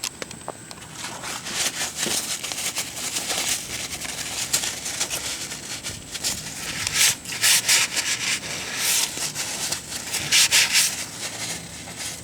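Irregular rubbing and scraping strokes, some short and some drawn out, with louder bunches of strokes about seven seconds in and again near ten seconds.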